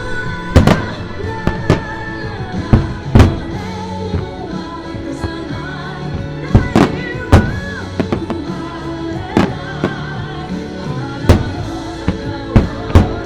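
Fireworks show music with a singer, over which aerial firework shells burst in about a dozen sharp, loud bangs at irregular intervals.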